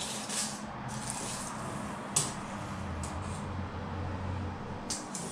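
Handling noise: rustling with a few sharp clicks, the loudest about two seconds in and another near the end, over a faint low hum.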